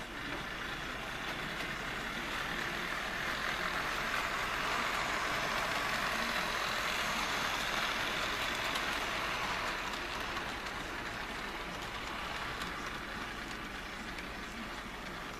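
HO-scale Jouef RTG Turbotrain model running on its track, a steady motor-and-wheel whirr that grows louder as the train comes near and eases off as it moves away.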